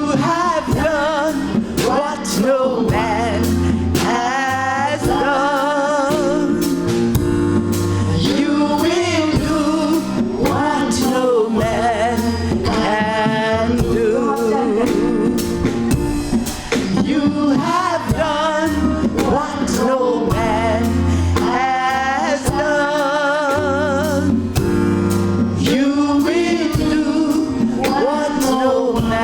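Live gospel music: a singer with a band of bass, keyboard and drums, the voice wavering in long sung lines.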